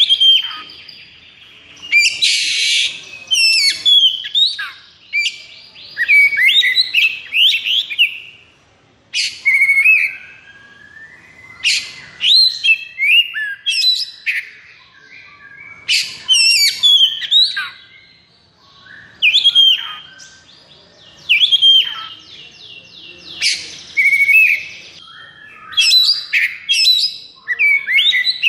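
Oriental magpie-robin (kacer) singing in loud bursts of varied whistles, fast trills and rasping notes, a new phrase every second or two. It is the nonstop, agitated 'konslet' song of a bird in high fighting mood.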